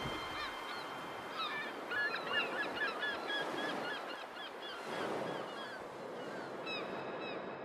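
Faint bird chirps: many short, quick notes that crowd together for a couple of seconds, thin out, and come again near the end, over a soft hiss.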